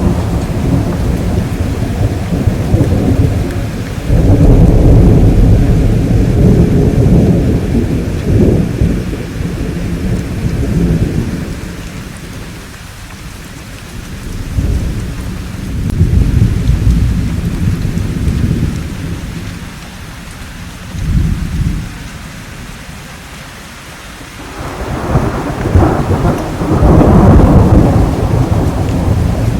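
Thunderstorm: rolling thunder rumbles in several long waves over steady rain. There is a short clap about two-thirds of the way in, and the loudest rumble comes near the end.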